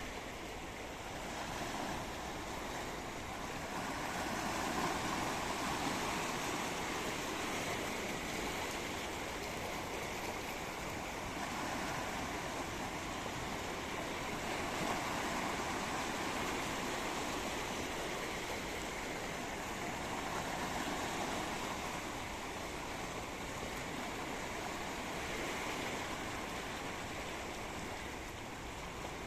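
Sea waves breaking and washing in: a steady rushing that swells and eases every few seconds.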